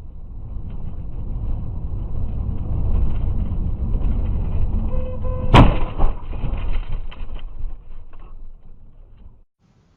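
A car runs with a low, steady road rumble, then one sharp, loud collision impact comes about five and a half seconds in and fades away, as a dashcam records a crash.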